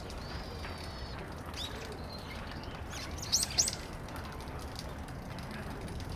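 Small bird calling: a thin high whistle near the start, then two loud, sharp, high-pitched calls close together about three and a half seconds in, over a steady low background hum.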